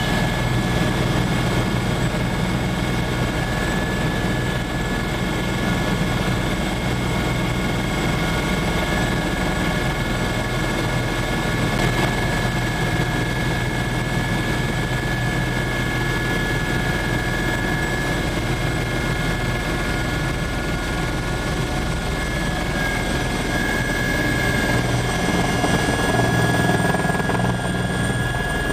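Helicopter in steady flight, heard from aboard: a constant rotor and turbine drone with a steady low hum and a steady higher whine.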